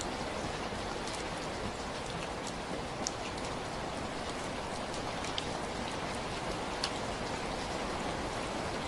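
Steady rainfall, an even hiss with scattered sharper drips and drop ticks, the loudest a little after three seconds and again near seven seconds in.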